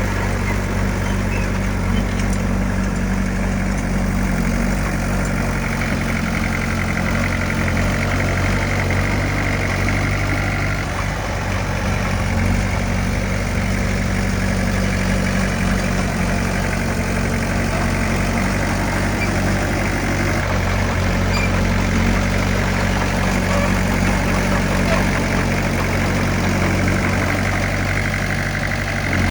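Diesel engine of heavy earthmoving equipment running steadily at an even pitch, with a deep drone of low engine tones.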